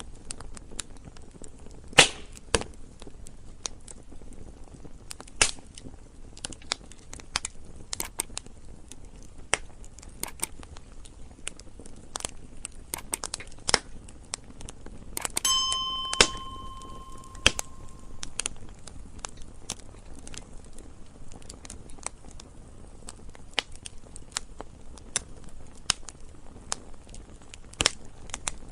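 Wood fire crackling: irregular sharp pops and snaps, some loud, over a low steady hiss. About halfway through, a brief ringing tone sounds for a couple of seconds.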